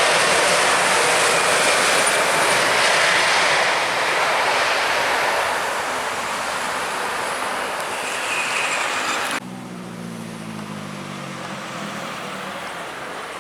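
Airliner engines roaring loudly as an aircraft passes, slowly fading. About nine seconds in the sound cuts off suddenly, and a quieter aircraft engine follows with a low hum that slowly falls in pitch.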